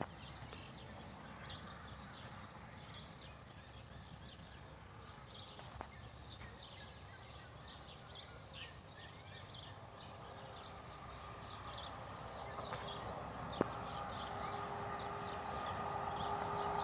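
Many small birds chirping in quick short calls throughout. From about three-quarters of the way through, a steady hum with several pitches rises in level, and there are two single sharp clicks, one near the middle and one later.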